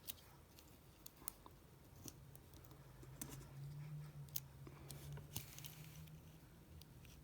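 Faint, scattered clicks and taps of small repair tools and parts being handled inside an iPhone 7, about a dozen in all, with a low steady hum underneath from about two seconds in until shortly before the end.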